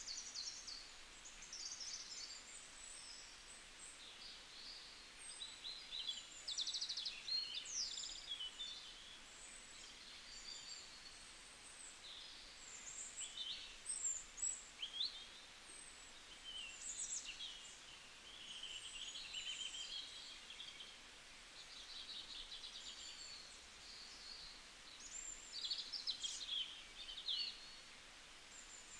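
Birds chirping and trilling, many short high calls overlapping, over a faint steady hiss.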